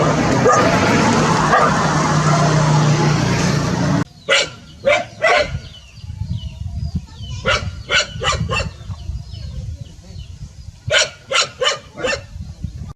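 Dog barking. For the first four seconds there is a dense, loud jumble of barks, then a sudden cut. After that come sharp, separate barks in three quick runs of three or four, over a low rumble.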